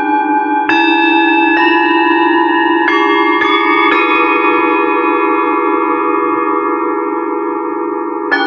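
Metal singing bowls struck one after another, about five strikes in the first four seconds. Their overlapping tones ring on and slowly fade, and another bowl is struck near the end.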